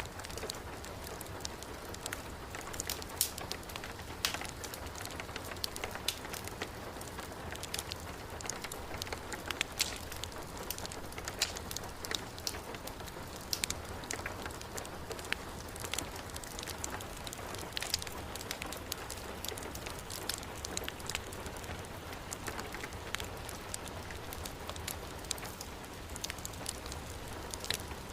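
Heavy rain falling steadily, with sharp crackles and pops from a burning wood fire scattered irregularly through it.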